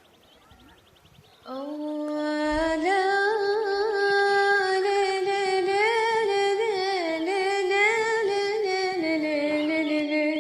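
A woman sings a Yemeni malala. She comes in about a second and a half in with one long, wordless, drawn-out note that she ornaments and bends. The note steps up a little and then sinks back lower near the end. Only one voice is heard.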